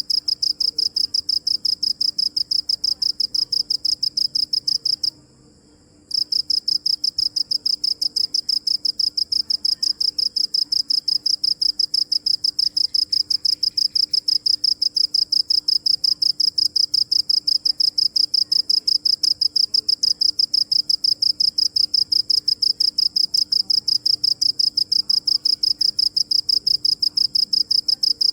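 A cricket chirping close by: a rapid, steady train of high-pitched pulses that stops for about a second around five seconds in, then carries on.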